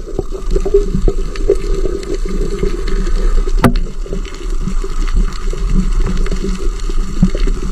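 Water sloshing and splashing with a steady low hum underneath, and one sharp knock a little over halfway through.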